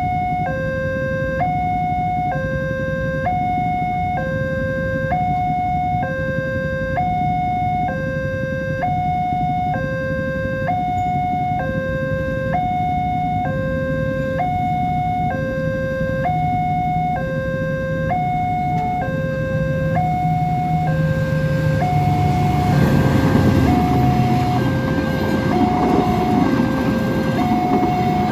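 Level-crossing warning alarm sounding two alternating tones, a low and a high, each held about a second, repeating steadily. A diesel train's engine hum builds underneath, and near the end the rushing noise of the train reaching the crossing grows loud over the alarm.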